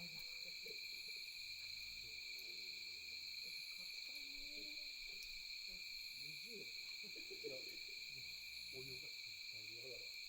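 Steady night chorus of insects, a continuous high shrill that does not break, with faint distant voices murmuring underneath.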